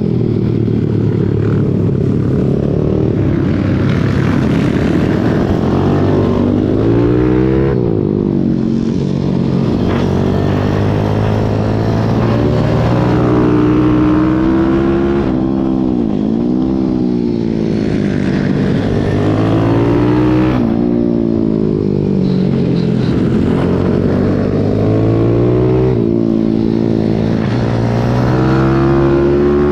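Pit bike engine at racing revs, heard onboard. Its pitch climbs repeatedly as the bike accelerates and shifts up, and drops sharply several times as the throttle closes.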